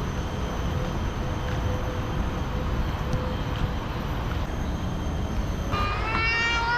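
Steady low rumbling outdoor noise. Near the end, a loud, drawn-out, wavering high call begins, bending up and then down.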